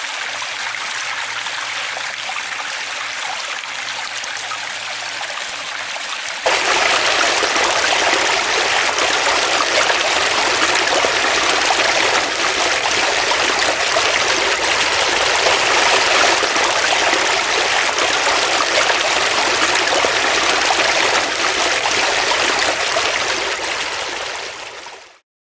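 Flowing stream water, a steady rushing. About six seconds in it cuts abruptly to a louder, fuller rush, which fades out just before the end.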